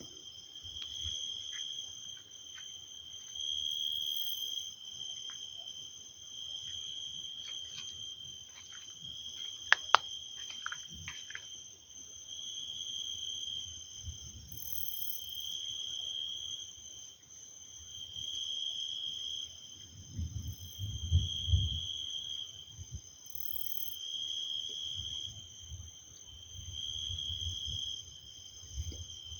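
Insects trilling steadily in a high pitch, the trill swelling and fading every two to three seconds. A few sharp clicks come around ten seconds in, and a brief low rumble a little past twenty seconds.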